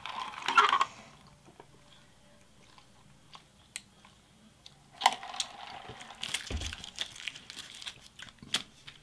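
Close-miked mouth sounds of chewing fast food, with paper food-wrapper rustling and clicks; loud in the first second, quiet in the middle while he sips through a straw, busy again from about five seconds in.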